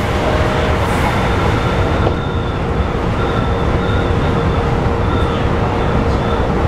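Running noise inside a Keikyu New 1000 series electric train, which has Toyo IGBT-VVVF inverters, travelling at speed. A steady heavy rumble from the running gear and rails, with faint high whines coming and going.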